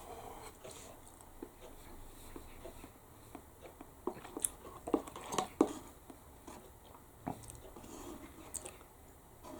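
A person chewing a mouthful of noodles, with soft wet clicks and smacks of the mouth at irregular intervals, thickest about halfway through.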